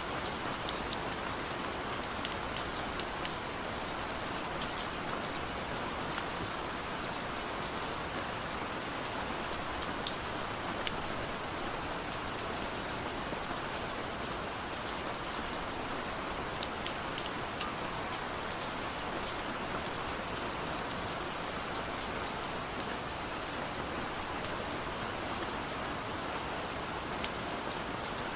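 Steady rainfall, a constant hiss with many small drops pattering and ticking on hard surfaces; no thunder.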